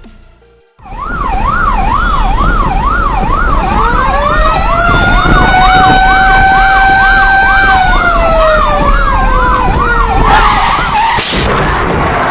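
Emergency-vehicle sirens: one rapid up-and-down yelp wail starting about a second in. A second siren joins a few seconds later, rising, holding a steady tone, then falling away. Both cut off near the end, over a low traffic rumble.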